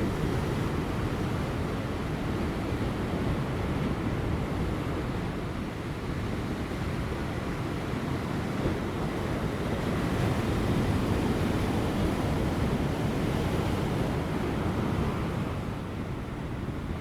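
Large ocean waves breaking on offshore rocks, a continuous wash of surf that builds about ten seconds in and eases near the end. Light wind blows alongside.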